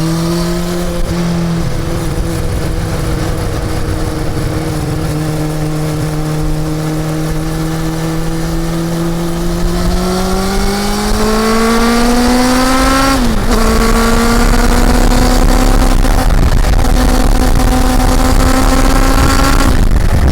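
Honda CB400 Super Four's inline-four engine under way: it holds steady revs, then climbs in pitch from about ten seconds in, drops sharply on an upshift about three seconds later, and runs steady again with another shift near the end. A low rushing noise grows louder as the speed builds.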